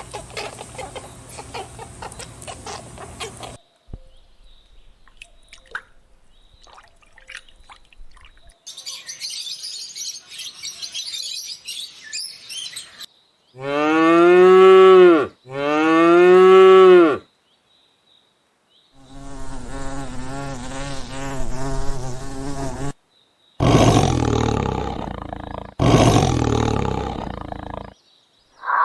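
Animal calls from several different recordings, one after another: a high buzzing hiss, then two loud calls in a row that rise and fall in pitch, a long wavering call, and two loud rough calls near the end.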